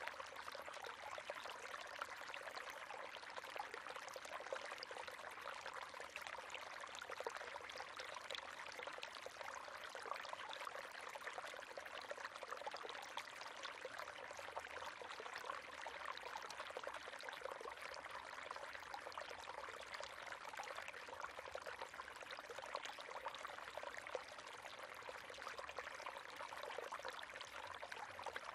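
River water running and splashing over rocks, a steady faint babbling.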